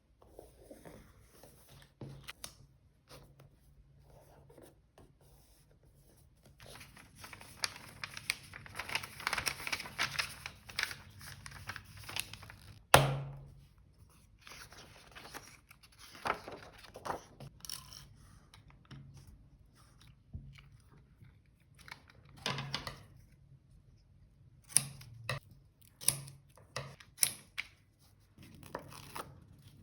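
Paper being slowly torn for several seconds, with a sharp knock of something set down on the desk soon after, then scattered small clicks and paper rustles as pieces are handled.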